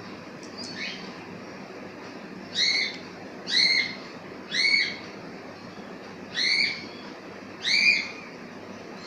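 Cockatiel calling five times in separate, evenly pitched whistled calls, each rising and then falling in pitch and lasting about half a second, starting a couple of seconds in.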